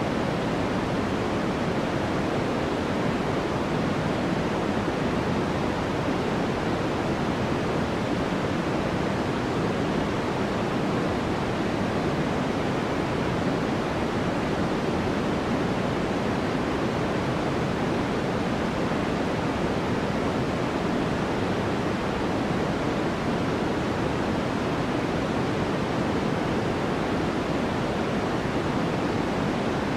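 Steady white-noise background track: an even, unchanging hiss with no breaks or events.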